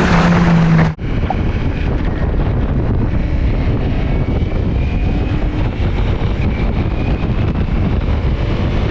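Wind rushing over a riding motorcycle's camera microphone, with a steady low rumble of engine and road. In the first second a louder steady-pitched drone with hiss cuts off suddenly.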